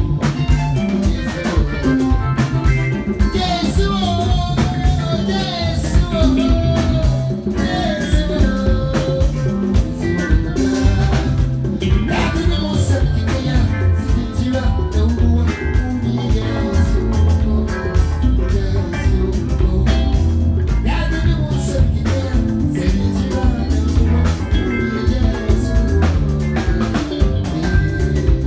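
A live band playing: a strong bass and drum beat with guitar and a melodic line over it.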